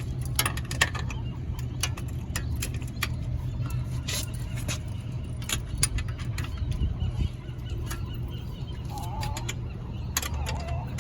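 Scattered clicks and knocks of cable and metal hardware being handled and fitted into place, over a steady low hum.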